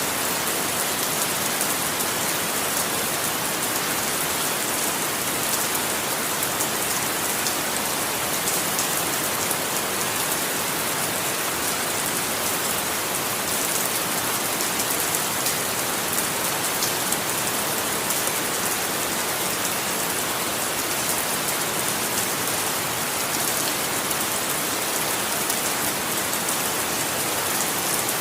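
Steady rainfall pattering on a surface, an even hiss of many fine drops with no letup.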